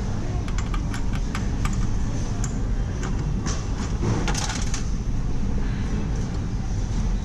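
Steady ambient rumble and hiss of a busy place, with a scattered run of light clicks and taps, most of them in the first half.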